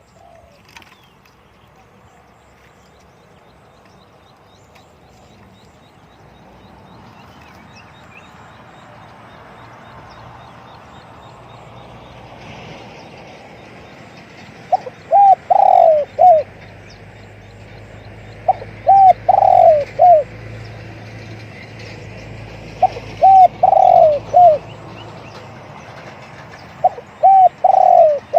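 Spotted dove cooing: four phrases of several deep notes each, about four seconds apart, beginning about halfway through, with faint chirps of other birds before them.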